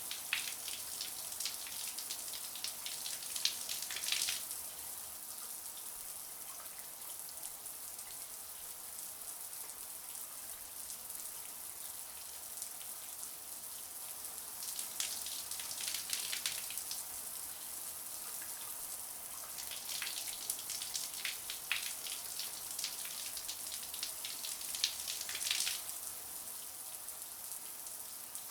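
Shower water running and spattering steadily. Spells of sharper, louder splashing come near the start and twice more in the second half.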